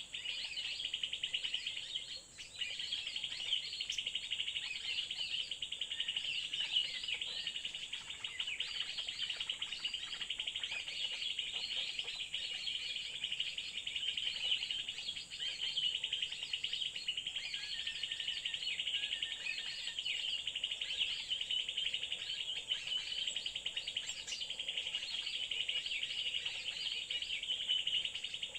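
Small birds chirping and chattering continuously and rapidly, over a steady high-pitched insect drone.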